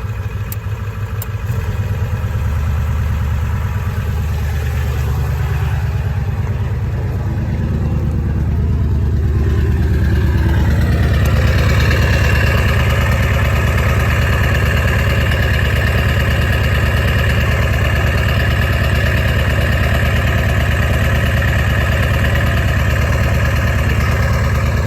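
Ford 7.3 Powerstroke V8 turbo-diesel, straight-piped, running at high idle on a cold engine. The engine note builds over the first dozen seconds or so, and a steady turbo whistle comes in about halfway through and holds.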